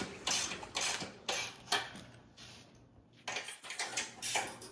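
Metal clinking and rattling in irregular sharp strikes, with a short pause about halfway: hand tools working on the minibike's loose drive chain.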